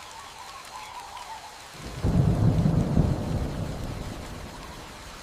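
Steady rain hiss, then a loud rumble of thunder breaking in about two seconds in and slowly dying away.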